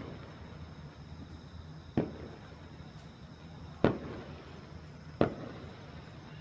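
Aerial firework shells bursting: three sharp bangs, the first about two seconds in and the others roughly a second and a half apart, each trailing off in a short echo.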